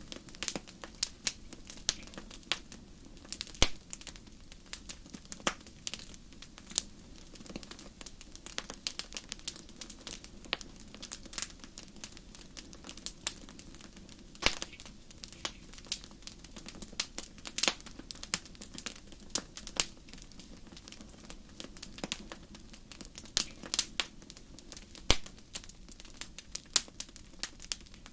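Wood fire crackling in a fireplace: irregular sharp pops and snaps, a few louder than the rest, over a steady low hiss of the flames.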